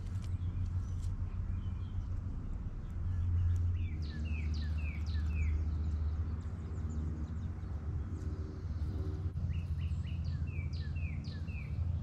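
A songbird singing two phrases, each a quick series of falling notes, about four seconds in and again near the end, over a steady low rumble.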